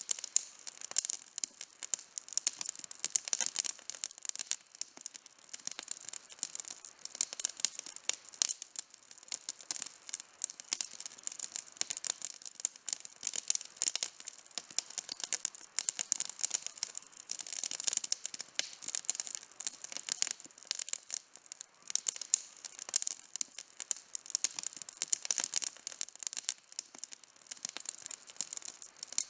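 Wood campfire burning and crackling: a steady stream of sharp pops and snaps several times a second, with little rumble below.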